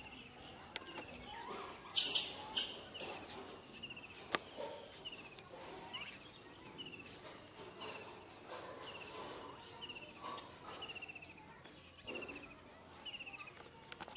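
A bird repeating a short chirp about once a second, with a few sharp clicks or taps in between.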